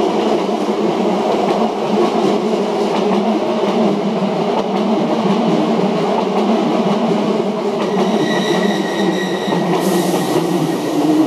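Hankyu 6000 series electric train running past at close range as it pulls into the station, wheels rumbling and rattling on the rails. A steady high-pitched squeal, typical of the brakes as it slows, joins about eight seconds in.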